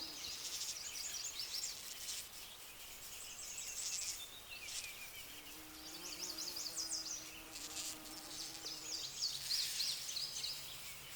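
Bumblebees buzzing faintly, a low hum that comes and goes, against rapid high-pitched chirping in the background.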